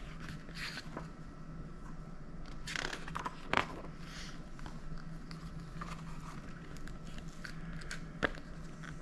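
Soft paper rustling and a few light clicks as a picture book is handled and its pages are turned, over a faint steady low hum.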